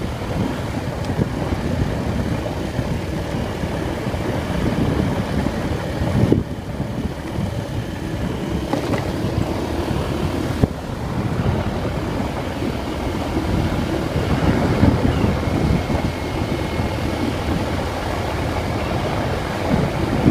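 Vento Terra motorcycle being ridden, its engine running steadily under heavy wind buffeting on the microphone, with a few brief gusts and bumps.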